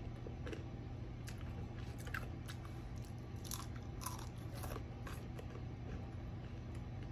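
A person biting and chewing crispy fried food, with crackly crunches. The crunches are densest around the middle.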